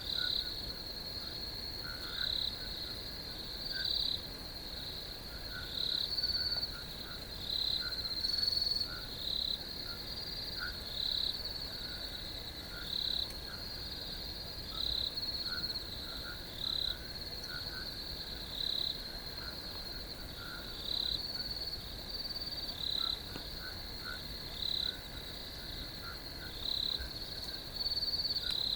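Crickets chirping: a steady high trill with louder chirps repeating every second or two, over faint lower ticking.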